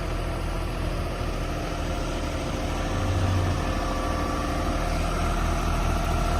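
Heavy equipment engine running steadily under a lifting job, getting slightly louder near the end.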